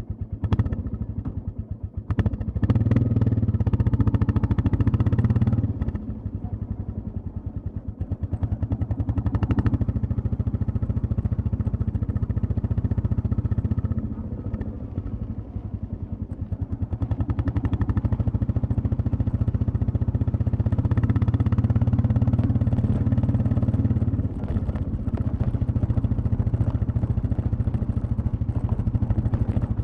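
Royal Enfield Classic 350's single-cylinder engine and exhaust thumping steadily while riding. The throttle opens for louder pulls and eases off in between, twice rising to a longer stretch under power.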